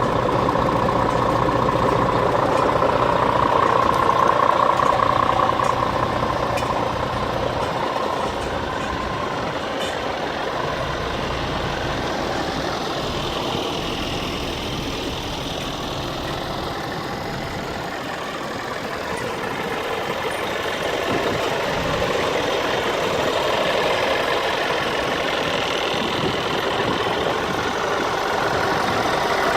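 Scania R450 tractor unit's six-cylinder diesel engine idling steadily. Its loudness dips somewhat partway through and rises again near the end.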